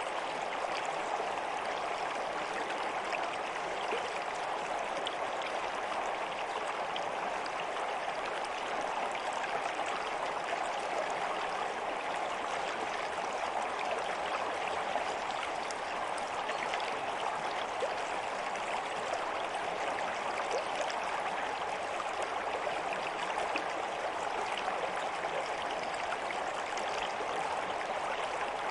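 Stream water flowing and babbling steadily, an even rush with small splashes and trickles.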